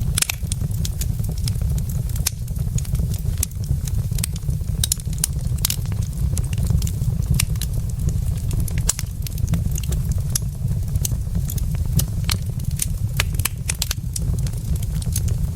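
Wood logs burning in a fireplace, crackling with frequent irregular sharp pops over a steady low rumble of the fire.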